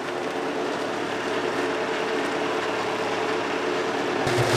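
Tractor engine running steadily while it drives a seeder sowing rye. Near the end a louder rushing noise cuts in.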